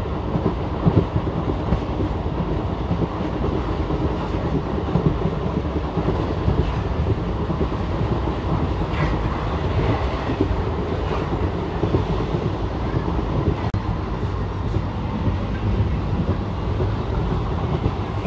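Passenger train coach running at speed, heard from its open doorway: a steady rumble of the wheels on the track with occasional clicks over rail joints.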